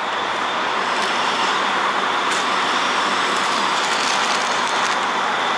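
Steady road-traffic noise: an even rushing hiss with no clear engine note.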